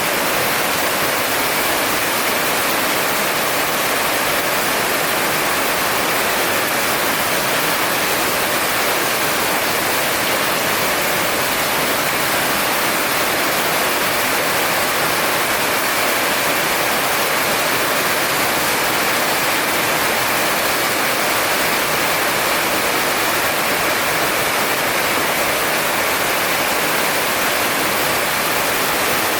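Heavy rain pouring down, a dense, steady hiss that does not change, with no thunderclaps.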